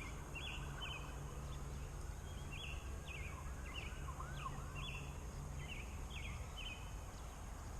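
A flock of Cornish Cross broiler chickens peeping, with many short high chirps overlapping one another. A low steady hum sounds beneath them and fades out about six seconds in.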